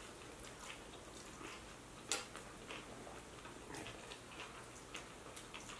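Faint chewing and wet mouth clicks of two people eating sub sandwiches and ramen noodles, with one sharper click about two seconds in.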